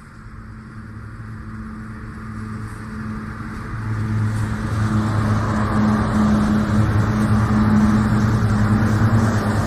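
Diesel multiple-unit passenger train approaching along the track: the steady low hum of its engine and the running noise grow louder over the first five seconds, then hold at full strength.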